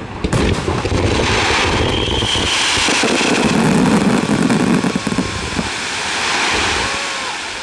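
Fireworks finale barrage: many shells and star mines firing at once, their bursts and crackle merging into one continuous loud rumble that dies down slightly near the end.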